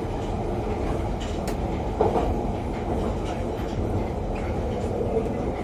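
London Underground Piccadilly line train running between stations, heard from inside the carriage: steady running noise of the wheels on the track, with a brief louder knock about two seconds in.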